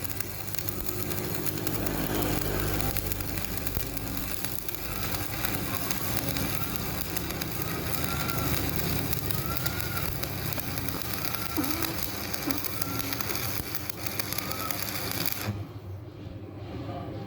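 Electric arc welding on a cracked steel truck wheel rim: a steady crackling hiss that cuts off about two seconds before the end.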